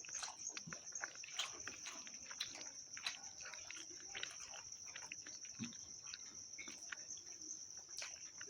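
A person eating with the mouth open: frequent wet smacks, clicks and chewing sounds at an uneven rhythm. A steady high-pitched tone runs behind it.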